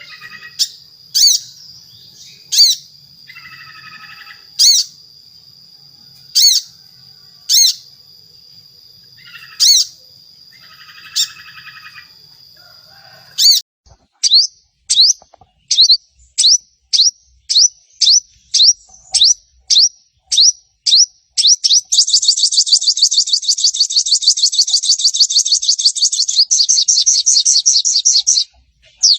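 Sogon bird song: sharp, high, falling single calls repeated every second or so, with short stretches of buzzy chatter. About halfway through, the calls come in a quickening series of falling notes that run into a long, fast trill near the end.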